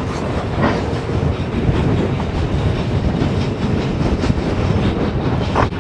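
Iron ore freight train running fast over the rails, its wagons rumbling and clattering steadily, with strong desert wind buffeting the microphone.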